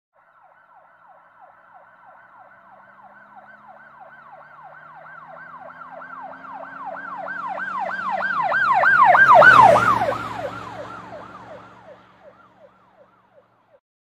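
Police car siren on a fast yelp, about three rapid sweeps a second. It grows louder, is loudest about nine and a half seconds in, then fades away.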